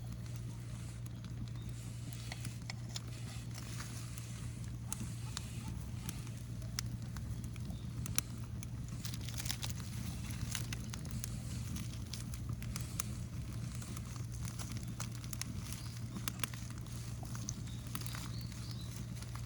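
Rubbish bonfire crackling, with scattered sharp snaps and pops over a steady low hum.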